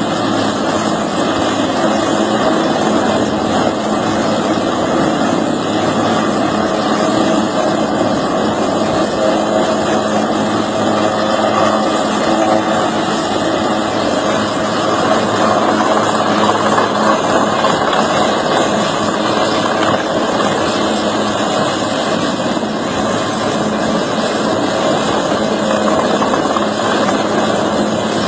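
A loud engine running steadily and unbroken, with a constant hum under a dense rushing noise.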